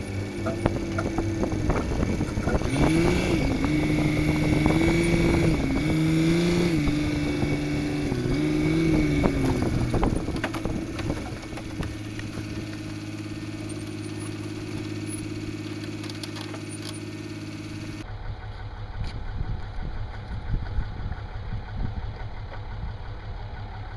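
Vehicle engine running, its pitch rising and falling in steps for the first ten seconds, then settling to a steady idle.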